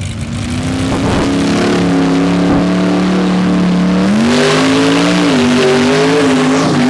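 Mud truck engine held at high revs with a steady pitch, then climbing higher about four seconds in and wavering as the throttle is worked.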